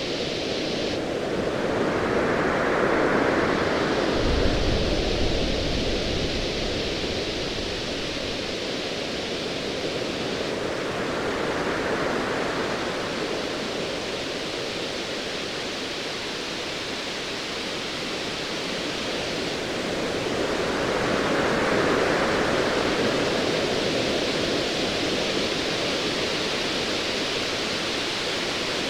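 Ocean waves washing in slow surges about every ten seconds over a steady hiss of surf, with a low rumble of distant thunder rolling from about four seconds in.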